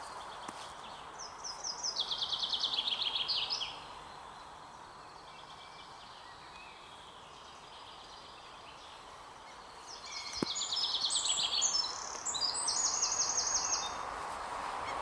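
A songbird singing short songs of rapid trills that step down in pitch, one near the start and more from about ten seconds in, over a steady outdoor background hiss.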